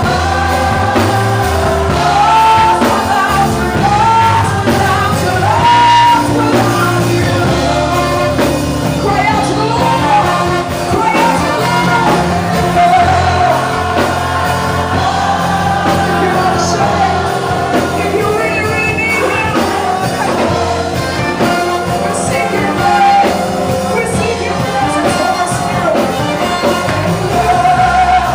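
Live gospel praise music: a singer or choir over a band with bass and drums, playing without a break.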